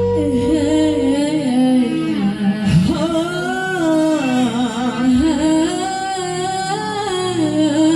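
A singer holding long, wavering notes that slide up and down, over instrumental backing; the deep bass drops out for most of the phrase.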